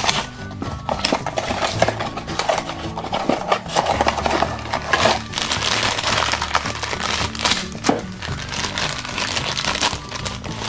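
Mystery-mini toy packaging crinkling and rustling as it is opened by hand, over steady background music.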